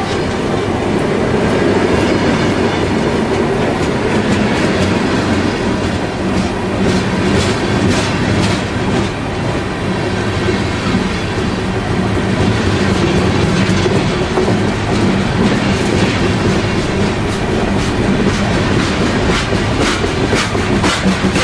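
Freight train's open-top hopper cars rolling past close by: a steady rumble of steel wheels on rail, with clusters of sharp clicks as the wheels cross rail joints.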